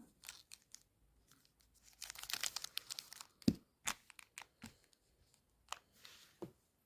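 Chocolate wrapper being crinkled and torn open: a dense crackling stretch about two seconds in, then a handful of separate sharp clicks and crinkles, the loudest with a dull thump about halfway through.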